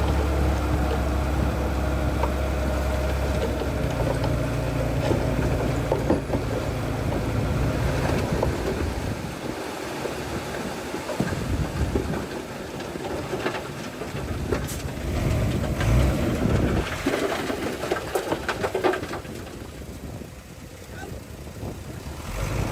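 Diesel engine of heavy earthmoving machinery running steadily close by, then fading away about nine seconds in, leaving wind noise and scattered knocks and clanks.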